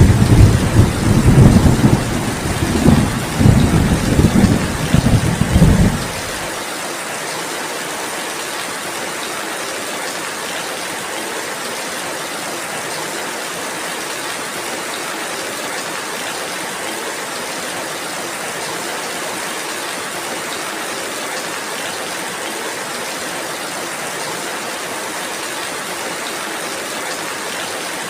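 Steady rainfall with a rolling rumble of thunder over the first six seconds, then the rain alone, even and unbroken.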